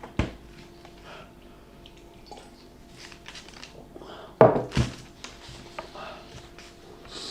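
Eating and table sounds: small clicks and rustles of handling food and cutlery, with a sharp knock just after the start and a louder pair of thuds about four and a half seconds in.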